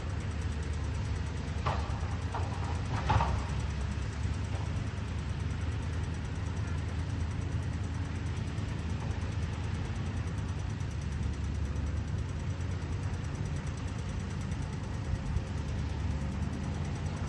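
Caterpillar 320D excavator's diesel engine running steadily with a low drone while it digs. A few brief sharp sounds come about two to three seconds in.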